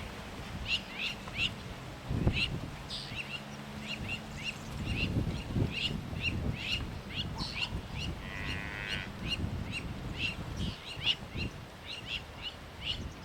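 Birds calling in a steady series of short high chirps, about two a second, with a different trilling call about eight seconds in. Wind gusts rumble on the microphone underneath, and a low hum sounds from about two to five seconds in.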